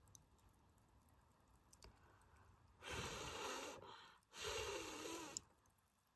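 Two breathy exhalations close to the microphone, each about a second long and the second with a wavering pitch to it. Faint crackles from the dying campfire come before them.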